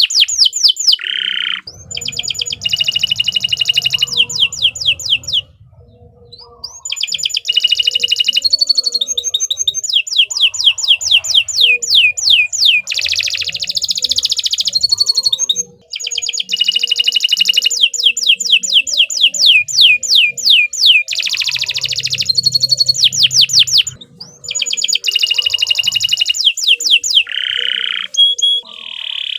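Domestic canary singing in long, continuous phrases of fast trills and rapidly repeated high notes, broken by brief pauses about a fifth of the way in, around halfway, and about four fifths of the way through.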